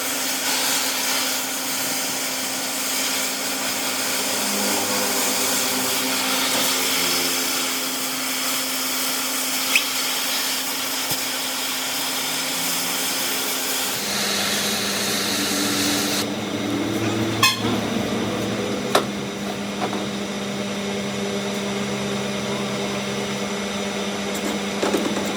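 Workshop machinery running steadily with a constant hum. The sound changes abruptly about two-thirds of the way through, and there are a few sharp clicks soon after.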